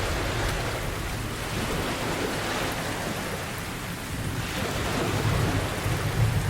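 Steady rain with low rolling thunder. The rumble eases off through the middle and builds again near the end.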